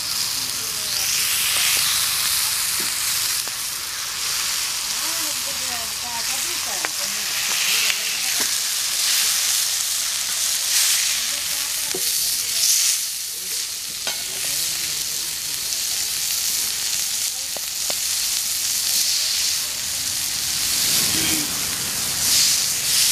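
A whole squirrel frying in oil on a blackened iron pan, the oil sizzling steadily, swelling and easing in waves.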